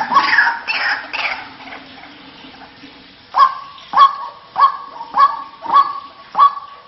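White-breasted waterhen calling. A fast, overlapping run of harsh falling calls fades out about a second and a half in. After a short lull, a steady series of loud, sharp calls follows, about one every 0.6 seconds.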